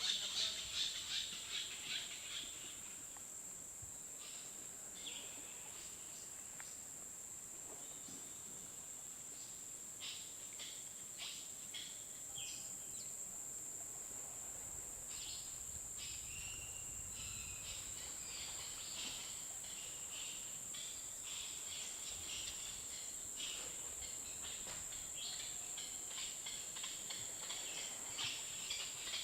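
Tropical outdoor ambience: insects droning at a steady high pitch, with scattered short bird or insect chirps over it.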